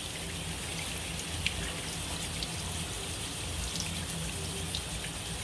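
Steady running-water noise with a low hum underneath and a few faint clicks.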